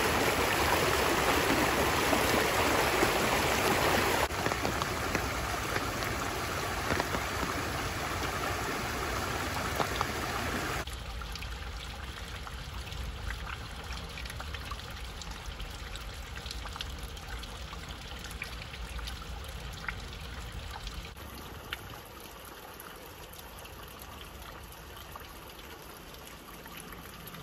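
A forest stream running, an even rush of water that drops abruptly to a quieter level in steps, about four seconds in, about eleven seconds in and near the end. Faint scattered ticks sound in the quieter stretches.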